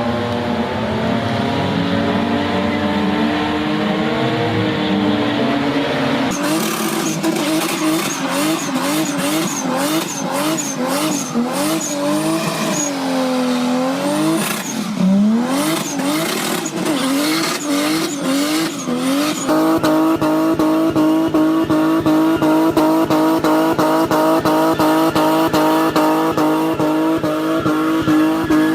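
BMW E30 M3's four-cylinder engine revving hard during burnouts, with tyres squealing. The revs first wander, then rise and fall in quick repeated blips, and for the last third are held high and steady.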